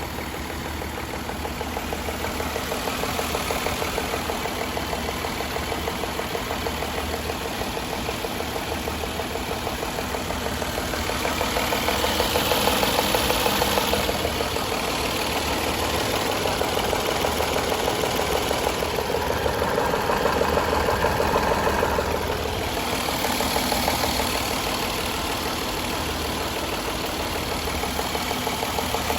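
2014 Jaguar XJL Portfolio engine idling with a rapid, even ticking. It swells louder twice, near the middle and again a little later.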